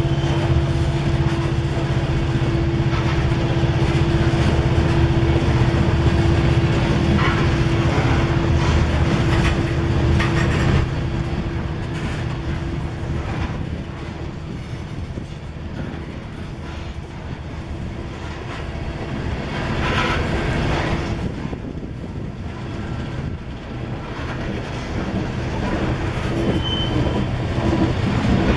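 Freight grain train rolling past on the climb, its wheels clicking over the rail joints. A steady diesel drone is heard through the first part and fades after about ten seconds, while the cars keep rumbling by.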